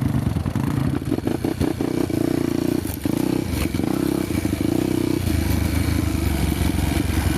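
Honda motorcycle engine running under load on a dirt trail: the engine note is held higher for a few seconds, then drops to a lower, steadier note about five seconds in, with some clattering from the bike over rough ground.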